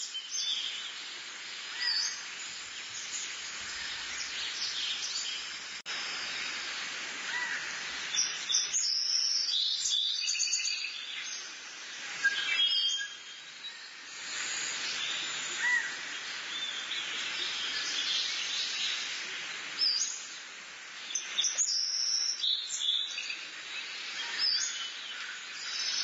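Birds chirping and calling at intervals over a steady outdoor hiss.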